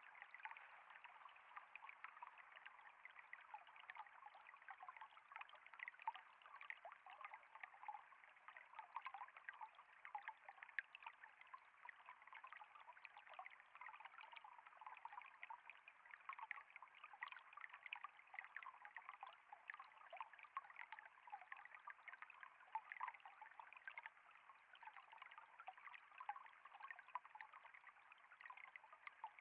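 Faint, steady trickle of flowing water, a light stream with many tiny splashes and bubbles and no deep rush.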